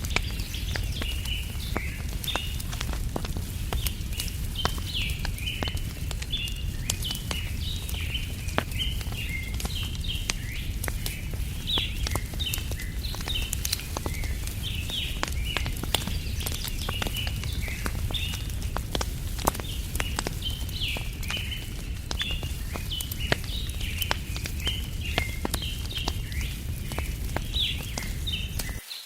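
Campfire crackling, with frequent sharp pops over a steady low rumble, while small birds chirp again and again throughout. The sound cuts out for a moment near the end.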